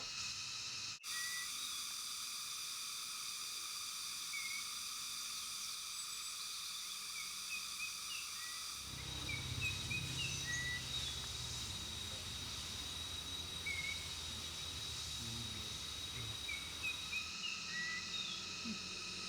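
Philippine bulbul giving short, scattered call notes over a steady, high, layered buzz of tropical insects.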